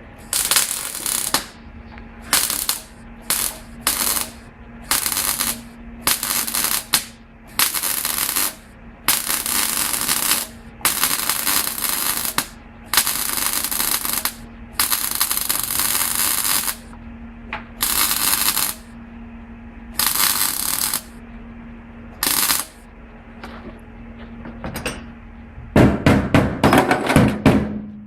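Electric arc welding in a series of short bursts of crackling hiss, each from a fraction of a second to about two seconds long, over a steady hum. Near the end comes a fast run of hammer knocks.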